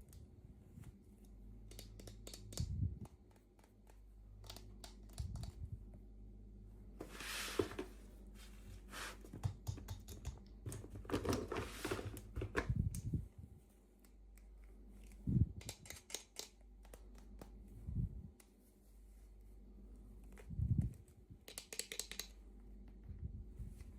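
Small toy packaging being handled and opened by hand: scattered plastic clicks and taps, with short crinkling, rustling stretches about seven, eleven and twenty-two seconds in.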